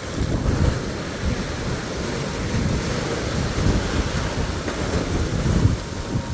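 Wind buffeting the microphone over the steady wash of waves on a beach, with uneven low gusts of rumble.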